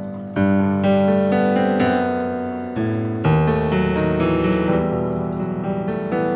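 Background piano music: sustained chords, with new ones struck about half a second in and again about three seconds in.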